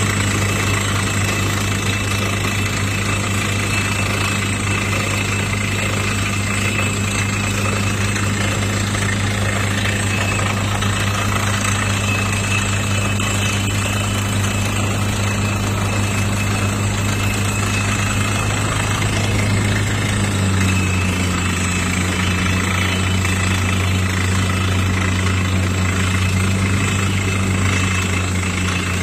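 Crawler down-the-hole drilling rig running: a steady, loud engine drone over a dense, rapid rattle, the drone dropping slightly in pitch about two-thirds of the way through.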